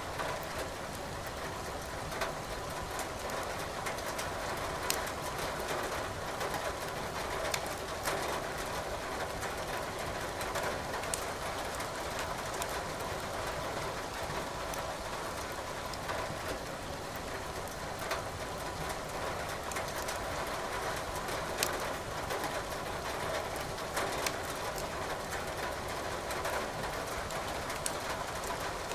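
Firewood crackling in a fireplace, with sharp pops at irregular intervals over a steady hiss of rain.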